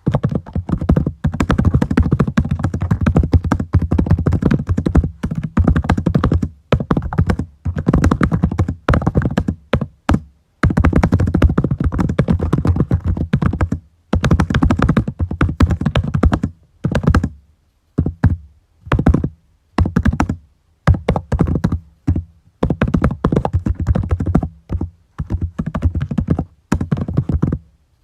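Typing on a computer keyboard: quick runs of keystrokes lasting a second or two each, broken by short pauses.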